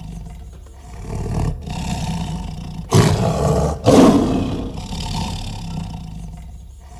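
Tiger growling low and steadily, with two loud roars about three and four seconds in.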